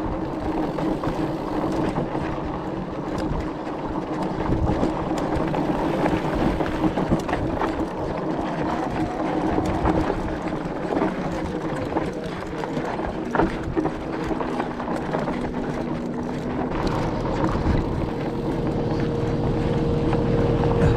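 A motor running with a steady hum whose pitch shifts a couple of times, over a rough, crackly noise of movement on a dirt trail.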